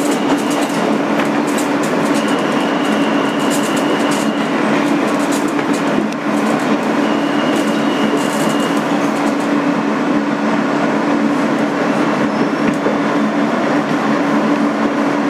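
Interior sound of a 2008 Kawasaki R160B subway car on the move: a steady low hum over rumbling wheel and track noise, with a few sharp clicks.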